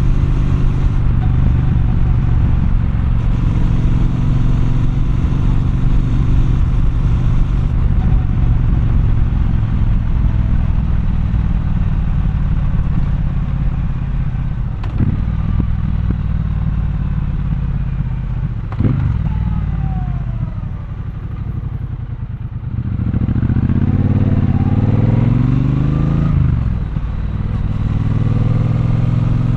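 Triumph Bonneville Bobber's 1200 cc parallel-twin engine running at steady road speed, heard from the rider's seat, with two sharp knocks partway through. After the engine drops back to a low, quieter note, the rider opens the throttle and the engine revs up with a rising pitch, then falls back at the next gear change near the end.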